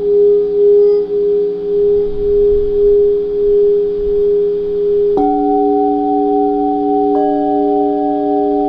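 Singing bowls ringing for sound healing. One long tone wavers and pulses, then a new bowl is struck about five seconds in, adding fresh lower and higher tones, and another joins about two seconds later.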